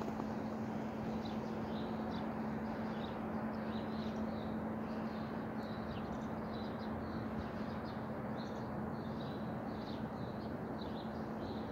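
Small birds chirping in short, scattered calls over a steady background hiss with a low, even hum.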